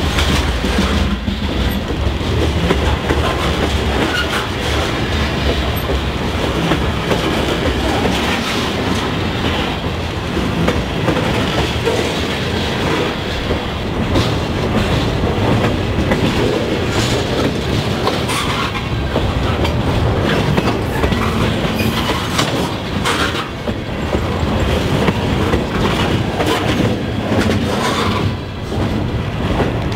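Freight cars (covered hoppers and centerbeam lumber flatcars) rolling past at speed: a steady loud rumble with the wheels clattering over rail joints.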